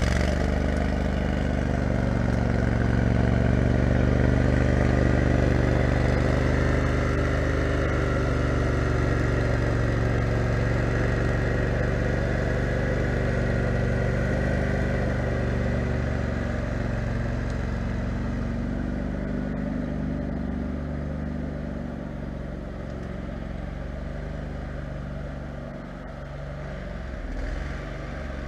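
Kohler 18 HP Command engine of a 6x4 off-road lawn mower running steadily, loud for the first half and then growing quieter over the rest.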